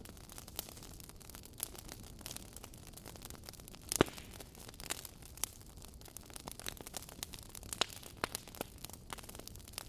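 Wood fire crackling in a fireplace: a low hiss with irregular sharp pops and snaps, one much louder pop about four seconds in.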